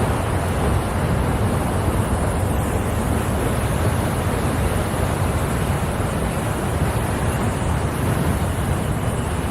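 Water pouring steadily down a dam's artificial waterfall, an unbroken rushing noise with a heavy low rumble.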